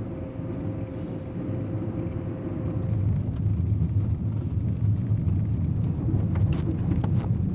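A car driving, with a steady low engine and road rumble that grows a little louder about three seconds in. A faint steady whine runs over it for the first few seconds.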